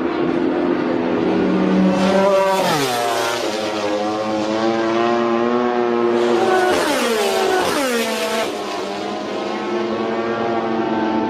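MotoGP racing motorcycle engines running at high revs, their pitch dropping sharply twice, about two and a half seconds and seven seconds in.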